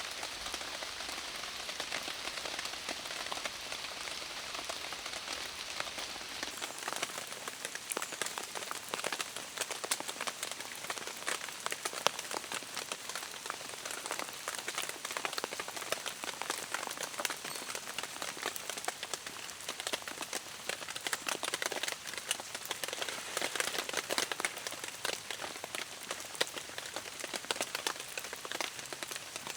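Steady heavy rain, with a dense patter of individual drops striking close by.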